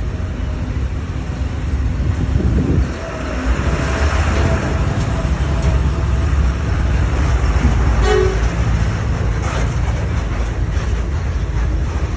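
Heavy vehicle engines running with a steady low rumble, and a short horn toot about eight seconds in.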